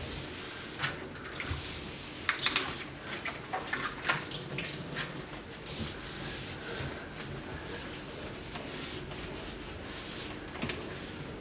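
Cleaning work at a sink with the tap off: scattered clicks, knocks and short rattles of things being handled, most of them in the first half, over faint water noise.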